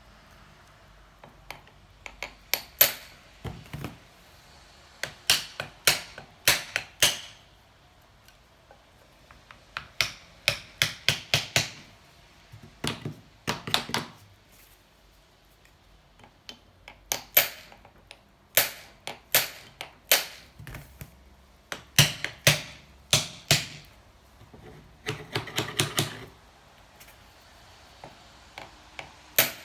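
Quick, sharp metal-on-metal taps in repeated bursts of several strikes a second, with short pauses between the bursts: the sound of tapping on a seized motorcycle engine's cylinder to work it loose.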